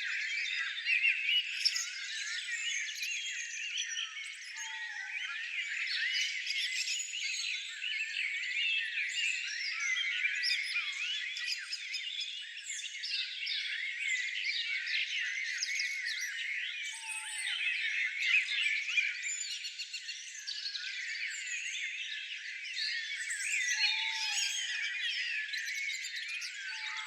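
Many small birds chirping and twittering at once, a dense unbroken chorus of quick rising and falling notes. A few short lower calls stand out about five, seventeen and twenty-four seconds in.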